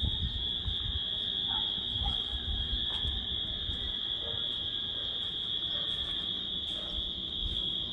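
Steady high-pitched insect chorus, with a few faint bird chirps and a low rumble of wind on the microphone.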